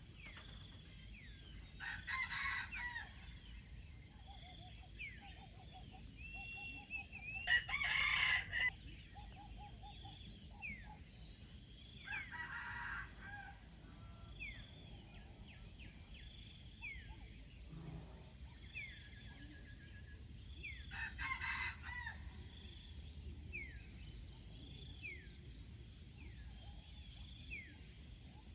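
A rooster crowing four times, the loudest about eight seconds in, over a steady high insect drone and short chirps repeating about every second and a half.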